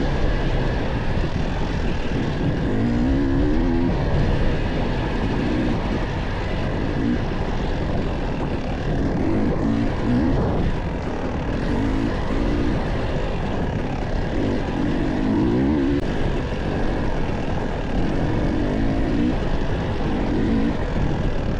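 Dirt bike engine under riding load on a trail, its pitch rising and falling every second or two as the throttle is worked, over a steady low rumble.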